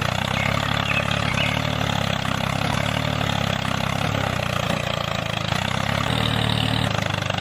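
A small engine or motor running steadily at an even pace, with a low hum under a broad whirring hiss.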